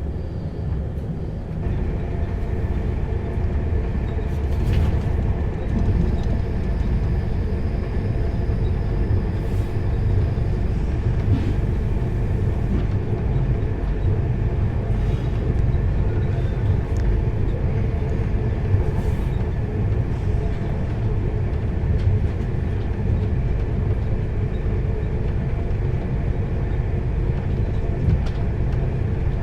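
Enterprise passenger train running at speed: a steady low rumble of wheels on rail, with faint steady whining tones that come in about a second and a half in.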